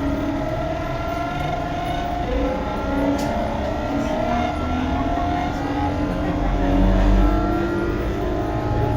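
Tobu 9050 series electric train running, heard from inside the car: traction motor whine with several tones slowly rising in pitch over a steady rolling rumble from the wheels and rails. A heavier low rumble swells about seven seconds in.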